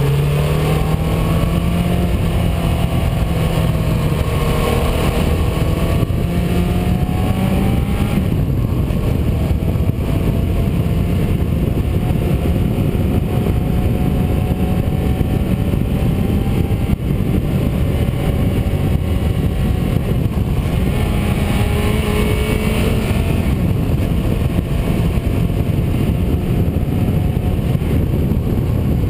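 Car driving under way: the engine runs with its revs rising and falling, over steady road and wind noise.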